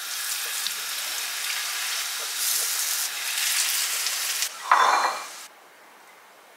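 Green-lentil patties sizzling as they fry in shallow oil in a nonstick frying pan, with a brief louder scrape and sizzle near the end; then the sizzling cuts off suddenly.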